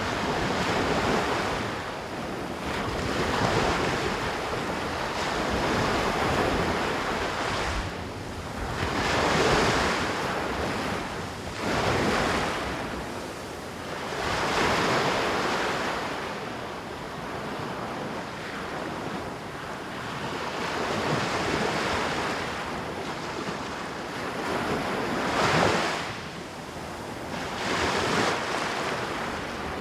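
Ocean surf on a beach: waves breaking and washing up in repeated surges that swell and fade every few seconds.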